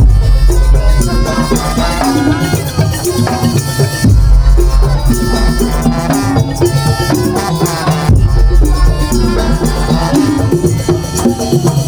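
Madurese tong tong ensemble playing loud traditional percussion music, with rattling percussion over a melodic line. A heavy deep bass comes in for a second or two about every four seconds.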